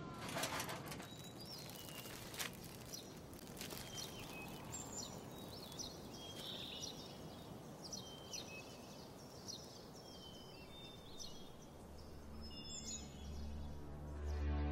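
Birds chirping in short, scattered calls over a steady outdoor background hiss. Soft background music comes in near the end.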